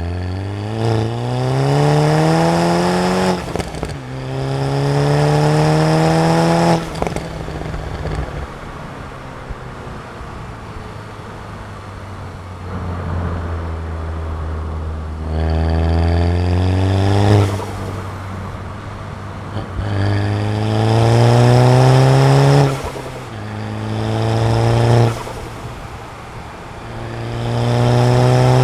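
Stage 2 tuned Volkswagen Golf MK6 GTI's turbocharged 2.0-litre four-cylinder engine accelerating hard through the gears. Its pitch rises in several pulls, each cut off sharply by an upshift, with a stretch of steadier, lower running partway through.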